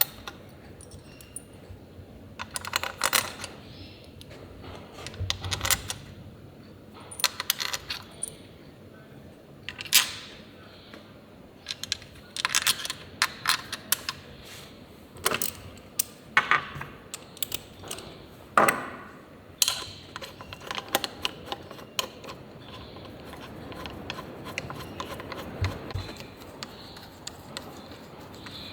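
Metal tools and small engine parts clinking and clanking against each other in irregular sharp clicks, some ringing briefly, as the engine is being worked on.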